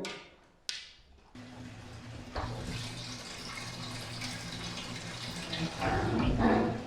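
Washing machine starting to fill: a click, then a steady hum sets in, and about two seconds in water starts rushing into the drum and keeps running.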